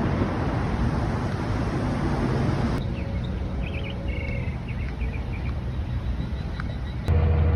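Steady road-traffic rumble, cut off abruptly about three seconds in. A quieter outdoor stretch follows, with faint high chirps. In the last half second a low, steady engine hum begins.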